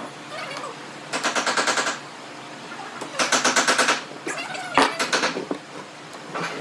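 Power tool hammering in two bursts of about a second each, roughly ten strokes a second, then a single sharp knock.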